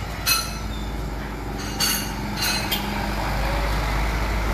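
A vehicle engine running steadily, with four sharp metallic clinks in the first three seconds.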